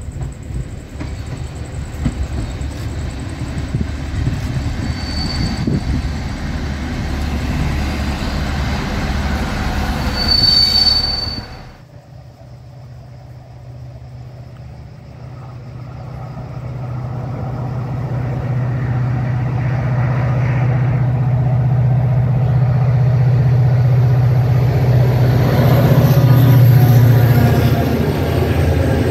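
A train running over the rails with two brief high wheel squeals. It cuts off abruptly about twelve seconds in. Then a diesel train's engine drone grows steadily louder as it approaches.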